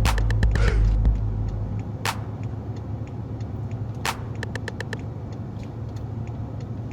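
BMW 750Li's twin-turbo V8 with a muffler delete, heard from inside the cabin, droning deeply. It is loudest for the first second, then eases off to a lower steady drone. A few sharp clicks come through over it.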